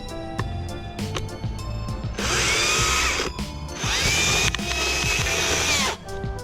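Battery-powered Stihl MSA 161 T top-handle chainsaw run in two bursts, about a second and then about two seconds long. Each time its motor whine rises and then holds a steady pitch. Music plays underneath.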